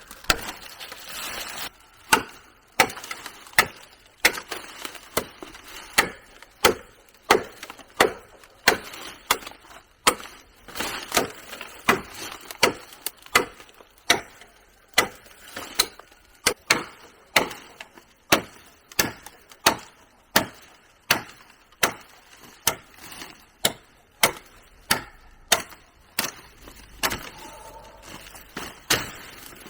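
Steady chopping: sharp tool strikes into wood, repeating about once every two-thirds of a second.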